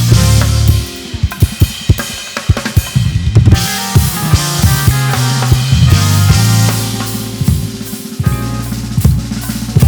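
Live band playing: a drum kit with kick, snare and rimshots leads, over held bass notes and keyboard chords. About a second in the band thins to mostly drums, and the full band comes back in a couple of seconds later.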